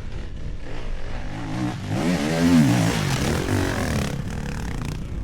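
2008 Yamaha YZ250 two-stroke dirt bike engine under load, its revs rising and falling with the throttle, with one big rise and fall about two seconds in.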